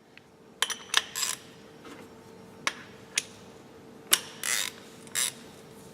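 A series of irregular sharp mechanical clicks and clacks, a few drawn out into short scrapes, over a faint steady hum.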